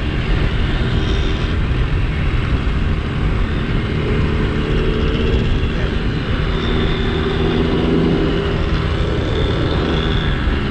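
Small single-cylinder motorcycle engine running steadily under way, with wind noise rushing over the microphone.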